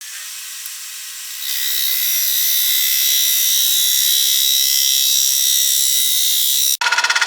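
A square carbide cutter with a radiused tip shear-cutting the outside of a spinning spalted oak bowl on a wood lathe: a loud, steady, hissing scrape that grows louder about a second and a half in as the cut is pushed harder. Near the end the hiss stops and gives way to a rapid pulsing, about a dozen beats a second, as the cutter touches the uneven wood in intermittent contact.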